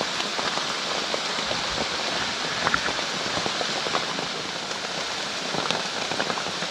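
Steady heavy rain falling, with many separate drops ticking.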